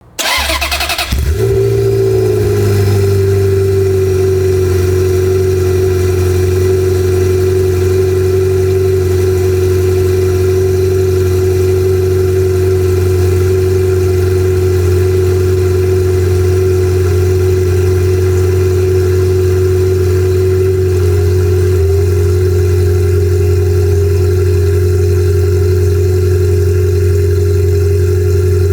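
Ferrari F355's 3.5-litre V8 on a cold start: the starter cranks briefly, the engine catches about a second in, and it settles into a steady, even cold idle.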